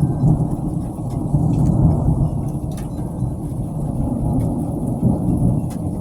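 Thunder rolling in a long continuous low rumble that swells and eases, with a few faint taps over it.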